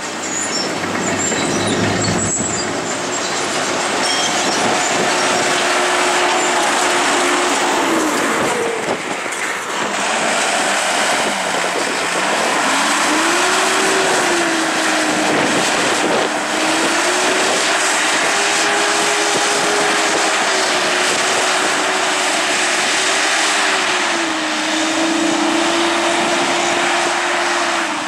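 Railroad equipment running on the track close by: loud continuous rumble and rail noise, with an engine tone that rises and falls, dips briefly about a third of the way in, then carries on.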